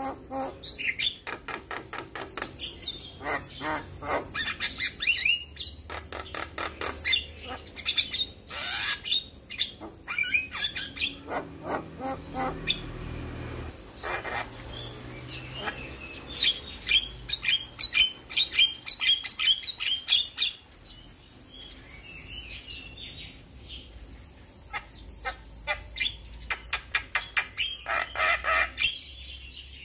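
Javan myna (jalak kebo) singing a long, varied song of quick chattering notes, squawks and whistles. There is a quieter lull about two-thirds of the way through before it starts up again.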